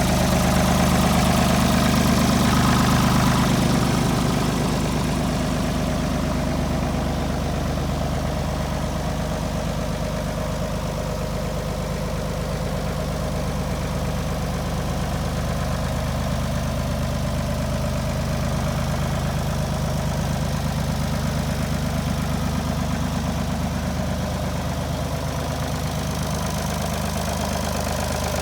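Ford 4610 tractor's three-cylinder diesel engine idling steadily, a little louder for the first few seconds before settling to an even run.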